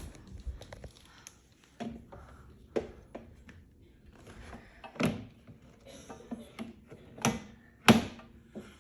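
Irregular plastic knocks and clacks of a lawnmower grass collector bag being handled and hooked onto the mower's rear holders. The loudest knocks come about halfway through and twice near the end.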